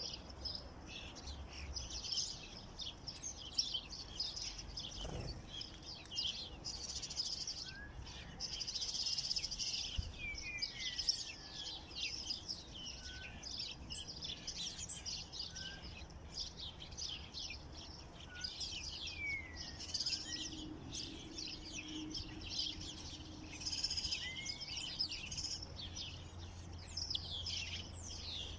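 A dense chorus of many small songbirds chirping and twittering at once, with overlapping high calls and an occasional lower, downward-sliding note.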